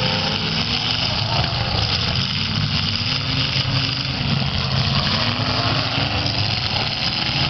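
Several demolition derby cars' eight-cylinder engines running together, their revs rising and falling.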